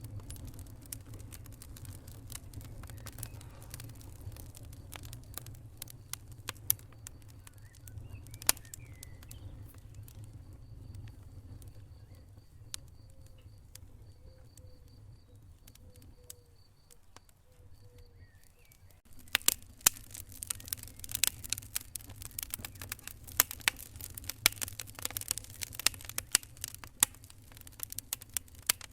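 Wood fire crackling in a fireplace over a low steady rumble: scattered single pops at first, then much denser crackling from about two-thirds of the way in.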